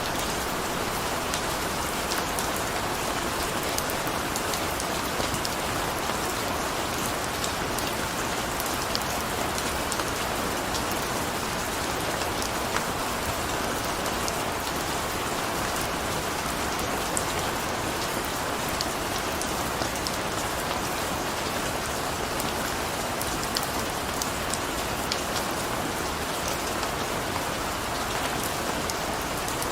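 Steady rain falling, with scattered sharp ticks of individual drops striking a surface.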